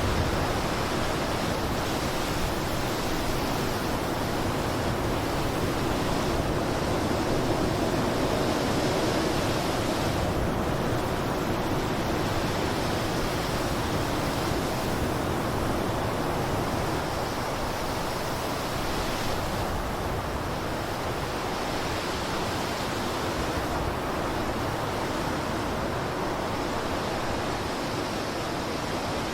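Blizzard wind blowing steadily: an even, dense rush of noise with no single gust standing out.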